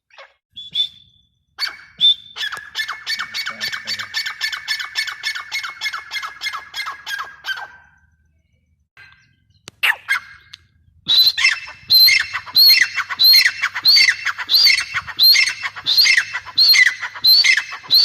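Grey francolin calling: a fast, even run of short notes lasting about six seconds, then after a short pause a loud series of repeated calls, about one and a half a second.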